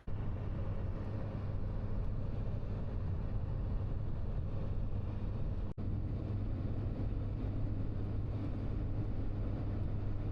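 Dodge 3500 pickup driving while towing a flatbed trailer: steady engine and road drone heard inside the cab. The sound breaks off briefly about halfway through.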